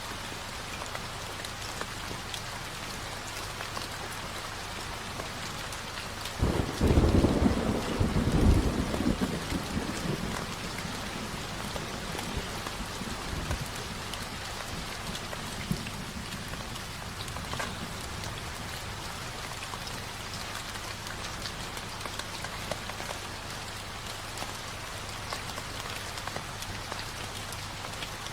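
Steady rainfall with a deep thunder rumble that sets in about a quarter of the way through, swells for a few seconds and dies away, leaving the rain going on evenly.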